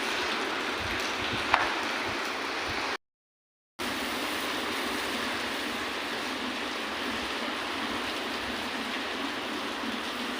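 Heavy rain pouring down in a steady hiss, with one short click about a second and a half in and a sudden drop to silence for under a second about three seconds in.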